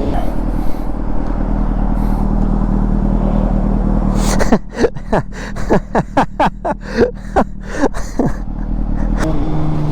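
Honda CBR600RR inline-four with a Yoshimura exhaust running steadily on the move, then about four and a half seconds in a rapid string of short, sharp crackles and pops from the exhaust for around four seconds before it settles back to a steady run.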